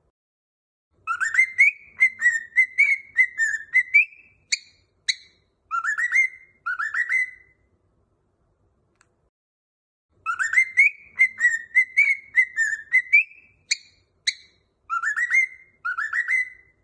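A cockatiel whistling a short melodic phrase of quick, partly rising notes, sung twice with a pause of about three seconds between; the two phrases are nearly identical.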